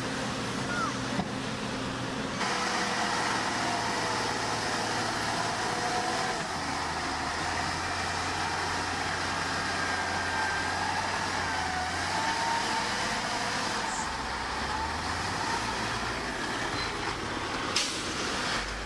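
Heavy diesel construction machinery running steadily, with a low engine drone that shifts in pitch and faint wavering high-pitched whines over it.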